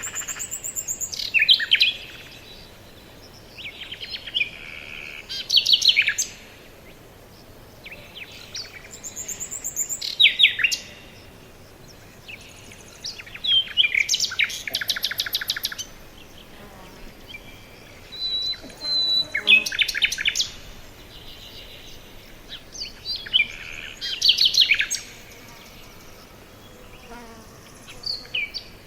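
Forest songbirds singing: short phrases of quick, falling runs of notes, repeated about every four to five seconds over a faint background hiss.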